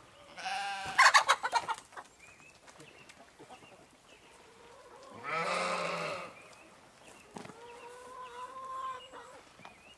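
Chickens: a squawk followed by a quick run of clucks about a second in, then a rooster crowing, one loud call in the middle and a long steady held note near the end.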